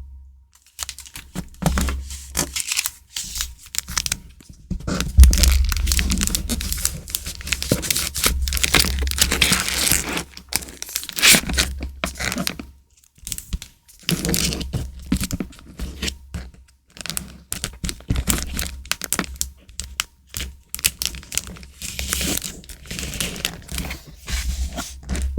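Paper and plastic stationery packaging being handled: crinkling and tearing in bursts with short pauses, with clicks and low thuds on the desk.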